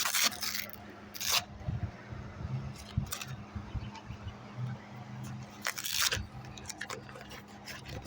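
Short bursts of rustling and scraping from gear being handled, near the start, about a second in and around six seconds in, over a steady low hum.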